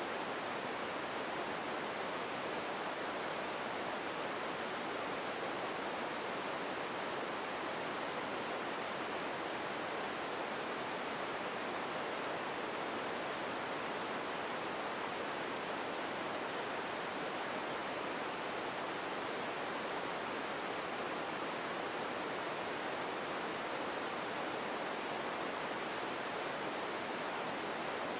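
Steady empty-ambience noise bed: an even, unchanging hiss with no distinct events, weighted toward the middle range.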